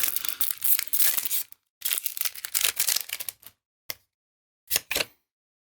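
Foil wrapper of a Magic: The Gathering booster pack tearing and crinkling in two long rustling stretches, followed by a few short crackles near the end.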